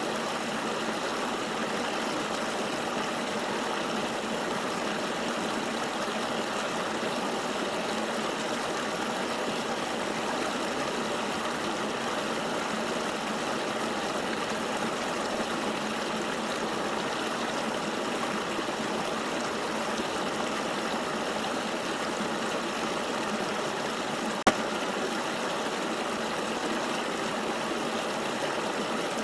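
Steady rushing of flowing river water, an even wash of noise that never changes, with one sharp click late on.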